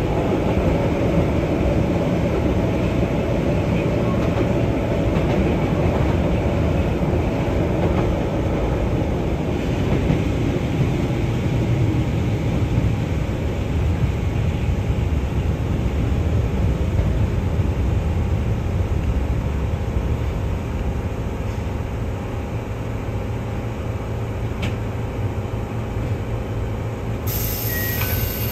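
Keihan 600 series train running, heard from inside the car: a steady rumble of wheels on rail and the traction motors. A higher hiss sets in near the end.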